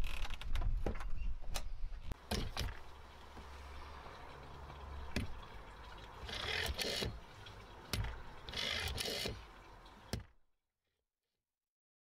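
Clicks and knocks of hands handling a wooden cabinet and a black vintage rotary-dial telephone, then the rotary dial wound and whirring back twice, each spin about a second long. The sound cuts off abruptly near the end.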